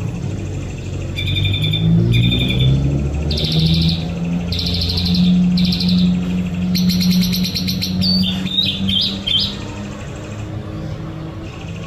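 White-rumped shama (murai batu) singing: several short phrases of rapidly repeated high notes, then a few quick up-and-down whistles, over a low steady hum.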